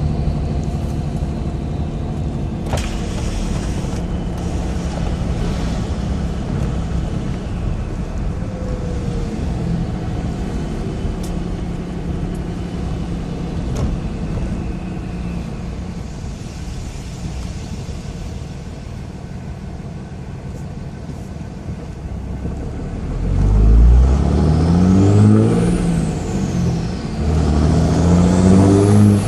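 Cummins turbodiesel in a Dodge Mega Cab pickup, heard from inside the cab, running steadily at cruise. Near the end the engine note climbs twice under acceleration, and the turbo whistle, made louder by an open Spectre aftermarket intake, rises and falls with each pull.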